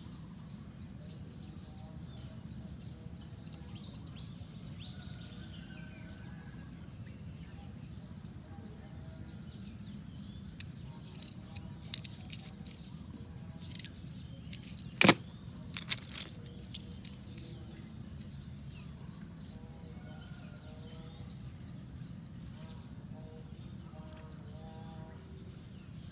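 Outdoor ambience: a steady high insect drone over a low hum, with faint bird calls. About halfway through comes a cluster of sharp clicks, one of them much louder than the others.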